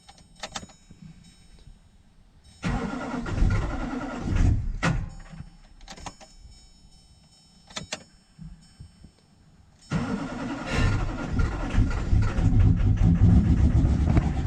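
Straight-piped 2006 LBZ Duramax 6.6-litre V8 turbodiesel cold-started with its glow plugs unplugged. A first attempt about three seconds in comes up loud and then dies away. A second attempt about ten seconds in catches and keeps running loud.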